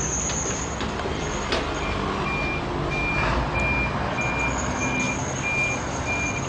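Truck's reversing alarm beeping at one steady high pitch, about one and a half beeps a second, starting about two seconds in, over the sound of the running truck.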